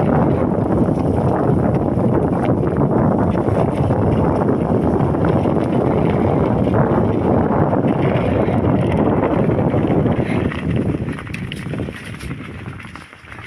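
Wind buffeting the microphone during a bicycle ride, a loud low rushing that dies away over the last few seconds as the ride slows.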